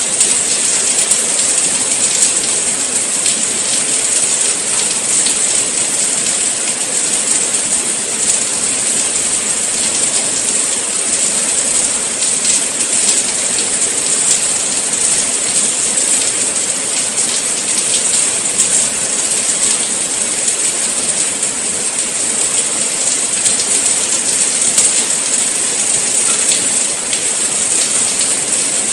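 Steady rain falling, a dense hiss of many fine drops.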